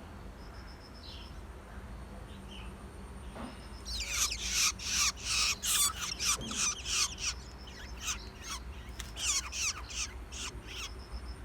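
Shrike giving a rapid run of harsh, raspy calls, about two a second, starting about four seconds in and stopping near the end, with a few faint chirps before it.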